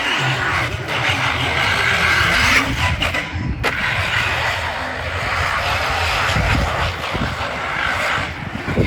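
Radio-controlled car running, its electric motor and drivetrain whirring with tyre noise. It briefly cuts out about three and a half seconds in.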